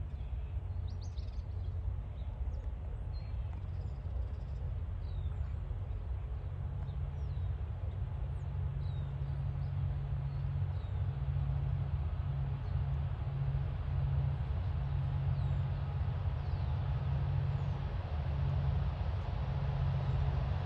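Diesel freight locomotives approaching, heard as a steady low engine drone that grows slowly louder, with small birds chirping now and then over it.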